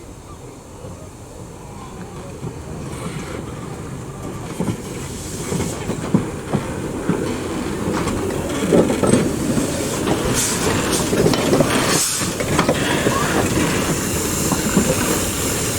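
Steam train approaching along the track, growing steadily louder, with scattered clicks and knocks from the wheels and track and a rising hiss near the end.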